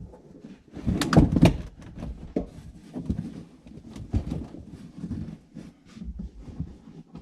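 Irregular knocks, thumps and scraping rustles of car carpet and interior trim being pried loose and pulled out of the cabin. The loudest is a cluster of sharp knocks about a second in.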